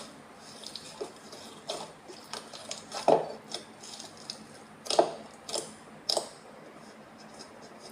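Foam slime being squeezed and poked by hand: scattered sticky crackles and wet clicks, the loudest about three and five seconds in.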